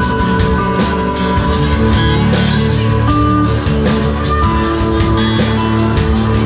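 A live rock band playing: guitar over drums keeping a steady beat.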